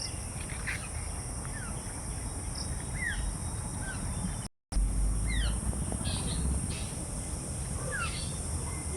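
Birds calling in short, downward-sliding chirps over a steady high insect drone. The sound cuts out for a moment about halfway through, followed by a brief low rumble.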